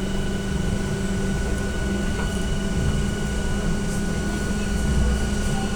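Cabin sound of an AKSM-321 trolleybus running: a steady hum with a thin, steady whine above it.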